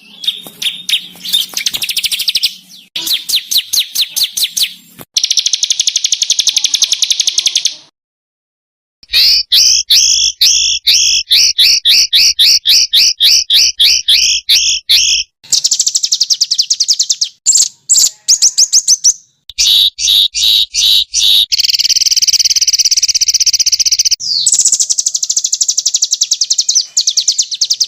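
Edited masteran track of small songbirds' harsh, rapid song bursts ('tembakan kasar'): fast runs of high repeated chips and buzzy trills, spliced in abrupt segments, with a dead silence of about a second some eight seconds in.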